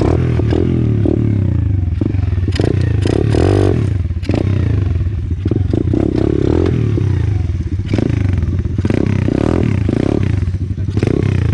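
Orion AGB 37 125cc pit bike's single-cylinder four-stroke engine running and revving up and down, with frequent clattering knocks over it.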